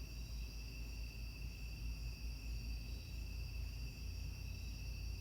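Crickets trilling steadily at a high pitch, over a constant low rumble.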